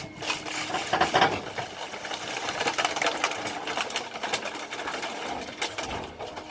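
Heavy machinery clattering: a fast, irregular run of metallic clicks and knocks over a faint steady hum.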